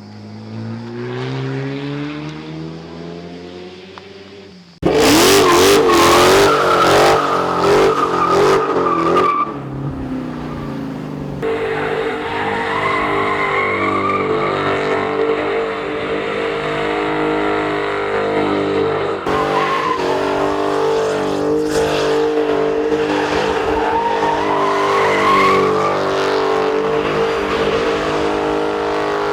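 Supercar engines and exhausts in several edited-together recordings. An engine note climbs in pitch, then a sudden cut brings a much louder stretch of revving with wavering pitch. A second cut about eleven seconds in leads to a steady engine note that rises in pitch several times.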